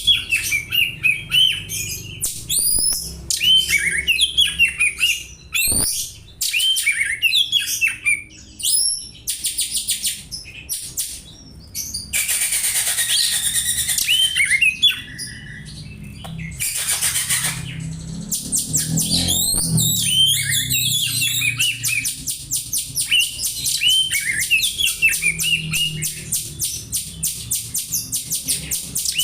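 Oriental magpie-robin singing a fast, dense run of chirps and rattles that mimic Eurasian tree sparrow calls. The song is broken briefly near the middle by a short rushing noise.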